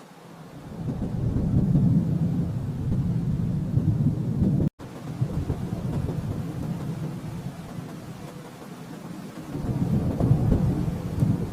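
Distant thunder rolling in long, low rumbles: one swells up about half a second in and fades, and another builds near the end. The sound cuts out for an instant near the middle.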